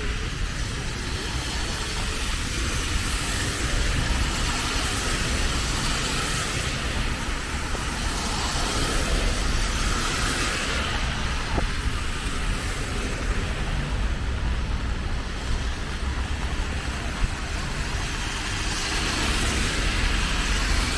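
Steady hiss of rain and car traffic on wet roads, with a low rumble underneath.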